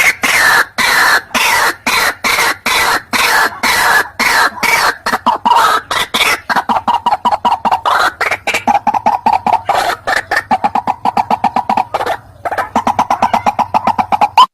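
White-breasted waterhen (ruak-ruak) calling loudly in a fast, unbroken series of harsh repeated notes, several a second, played as a bird-lure recording. The notes start higher and slide lower, settle into a steady lower chant after about six seconds, and break off briefly about twelve seconds in.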